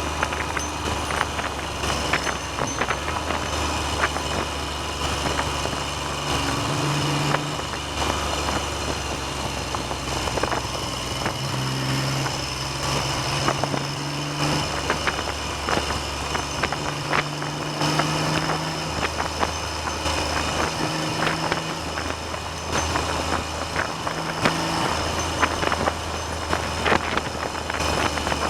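Triumph Trident three-cylinder motorcycle engine running on the road, its note stepping up and down a few times with the throttle, under heavy wind noise on the microphone.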